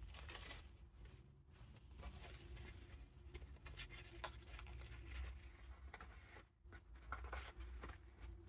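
Soft rustling and light crackles of the paper pages of a handmade junk journal being handled and turned, over a faint low hum.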